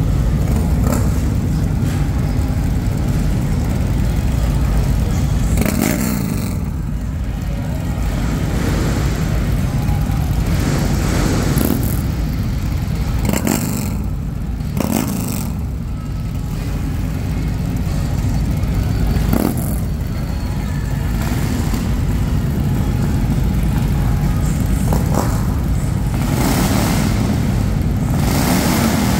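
Harley-Davidson V-twin motorcycle engines running in a large hall, a steady low rumble with several brief louder revs.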